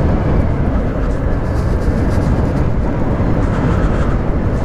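Steady wind rush on the microphone with tyre and road noise as a CSC City Slicker electric motorcycle rides along. The bike itself makes little sound of its own.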